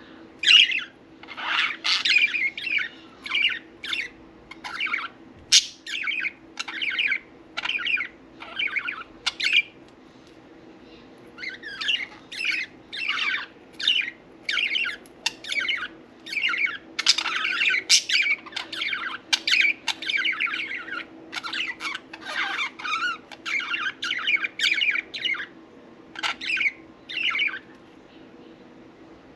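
Pet budgerigars chirping and chattering in quick short calls, with a brief lull about ten seconds in, over a faint steady low hum.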